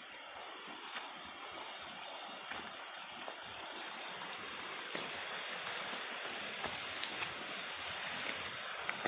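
Waterfall's rushing water: a steady noise that grows a little louder over the first few seconds, with a few faint clicks scattered through it.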